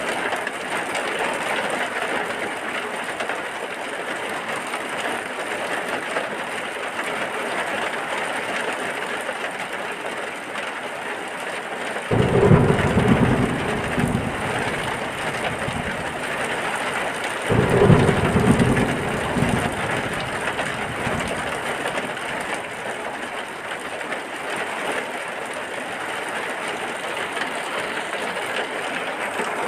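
Steady heavy rain, with two low rumbles of thunder a few seconds apart near the middle.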